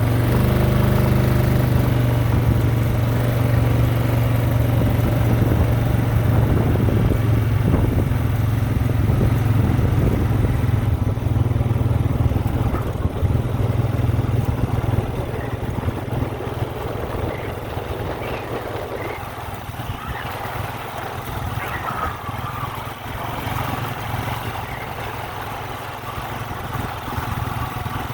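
An engine running steadily at an even speed, growing somewhat quieter about halfway through.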